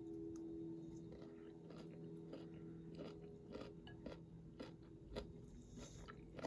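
Quiet chewing of a mouthful of vegetable fried rice, with irregular small mouth clicks and crunches, over a steady low hum.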